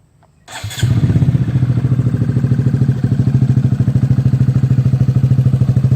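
2014 Honda Grom's single-cylinder engine, breathing through an aftermarket M4 full exhaust with its baffle in, electric-started about half a second in: a brief starter whirr, then it catches and settles into a steady idle. The idle is a deep, even thump.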